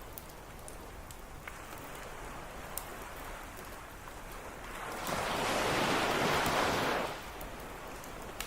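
Surf on a beach, with a wave washing in loudly about halfway through and fading after two seconds, and a few faint sharp pops from a crackling campfire.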